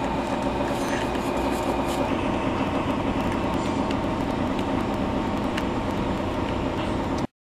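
Electric drill motor running steadily, with scattered light clicks. The sound cuts off abruptly near the end.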